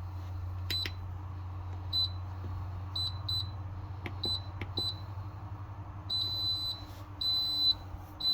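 Electronic appliance beeper sounding at one high pitch: half a dozen short, irregular beeps, then three longer beeps in the last two seconds. A steady low hum runs underneath.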